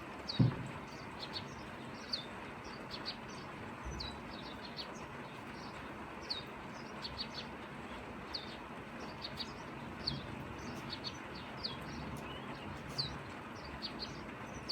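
Steady light rain hissing, with small birds giving many short high chirps throughout. A single low thump about half a second in is the loudest moment.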